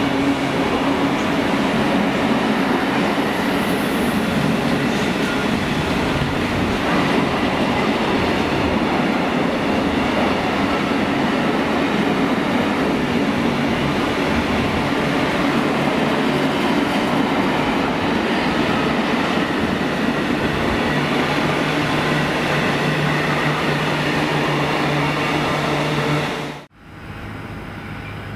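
Freight train of covered steel-coil wagons rolling past close by: a loud, steady rumble and clatter of wagon wheels on the rails. It cuts off abruptly near the end, leaving a much quieter steady low hum.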